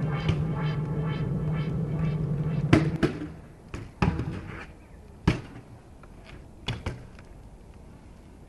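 Electronic music with a steady pulse stops about a third of the way in. About six sharp knocks and thuds follow, unevenly spaced over the next few seconds, the first the loudest: a BMX bike striking the ground as it lands and rolls.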